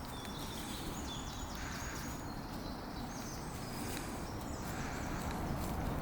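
Outdoor ambience: a low rumble of wind on the microphone, with a small bird chirping quick series of short, high notes twice.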